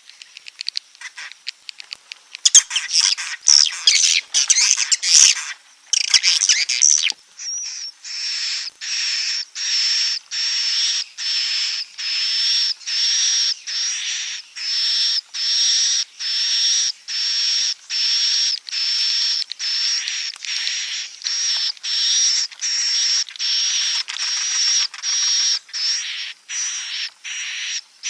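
Swiftlet calls of the kind played as a roosting lure for swiftlet houses. Scattered high chirps give way to a few seconds of dense twittering. Then comes a steady series of buzzy high-pitched chirrups, about one and a half a second.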